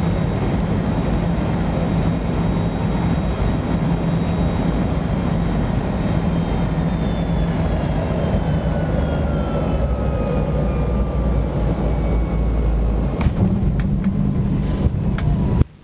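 Cabin noise of a Fokker F28 airliner on final approach: its Rolls-Royce Spey turbofan engines and the airflow make a steady loud rush over a low hum, while an engine whine slowly falls in pitch. A few sharp knocks come near the end.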